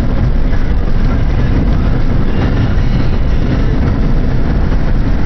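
Steady road and wind noise of a car driving at highway speed, a dense low rumble with hiss above it.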